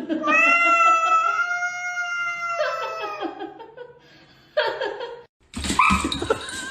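A cat yowling: one long, drawn-out caterwaul of about three seconds, then a short second call. Near the end a louder, noisier sound with a warbling tone comes in.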